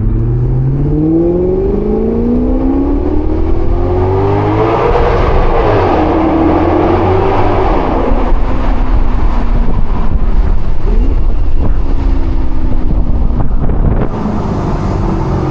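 Maserati GranCabrio's Ferrari-derived 4.7-litre V8 accelerating hard, its note climbing steadily through the revs for about five seconds and again briefly after. It then runs steadier under load with wind and road noise, and eases off near the end.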